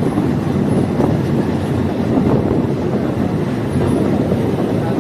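Diesel multiple unit railcar running along the track: a steady, continuous rumble of wheels and engine, heard from on board.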